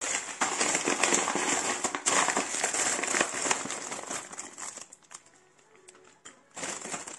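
Packaging being handled, crinkling and rustling in close-up. It goes quiet for a moment about five seconds in and starts again near the end.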